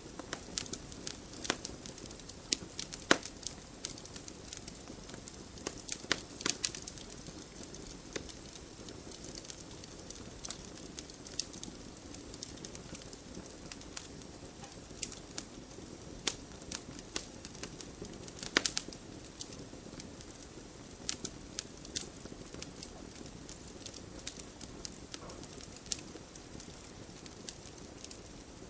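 Wood fire burning in a fireplace: irregular sharp crackles and pops over a steady low hiss of flame, with a few louder snaps about 3, 6 and 18 seconds in.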